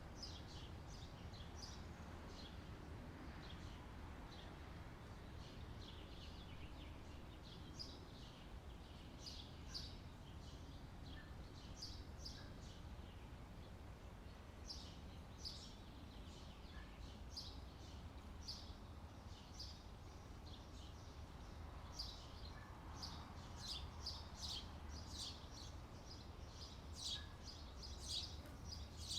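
Small birds chirping, many short high calls that grow busier in the last few seconds, over a faint steady low background rumble.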